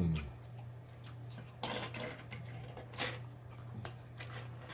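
Close-miked chewing and wet lip smacks from a man eating a mouthful of food, with a short falling "mmm" of enjoyment right at the start and the sharpest smacks about two and three seconds in. A steady low electrical hum sits underneath.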